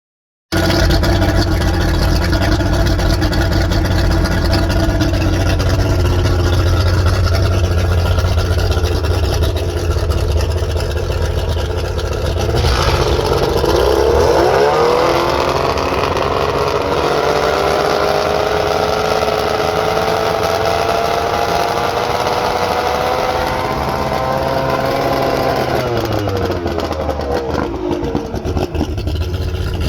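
Boat engine running at idle, revved up about twelve seconds in and held at a higher speed, then dropping back to idle near the end.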